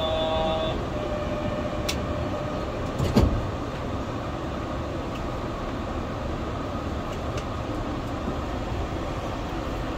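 Yurikamome rubber-tyred automated guideway train running, its steady travel noise heard from on board. A brief tone sounds at the very start, and a single loud knock comes about three seconds in.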